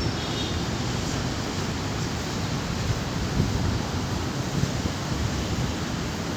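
Airbus A320neo's jet engines on final approach: a steady rushing roar, mixed with wind buffeting the microphone.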